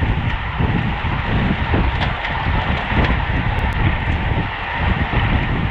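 Wind rushing and buffeting over the microphone of a camera on a road bike ridden at race speed, with steady road noise beneath.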